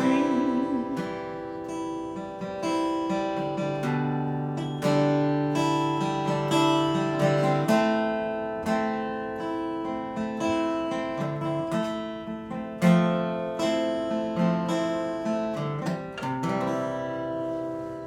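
Alvarez acoustic guitar playing the closing chords of a song, with plucked notes and strums ringing out and dying away near the end. A sung note ends about a second in.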